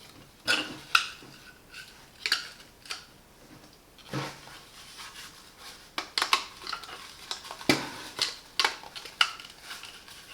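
Irregular hard plastic clicks and knocks, about a dozen, from vacuum cleaner accessories being handled and the accessory holder being clipped onto the metal tube.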